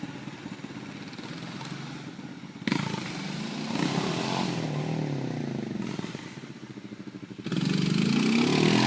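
Dirt bike engines running low, then revved hard and accelerating in two bursts, the first about three seconds in and the second near the end, with pitch climbing and falling through the gears as riders try to pull wheelies.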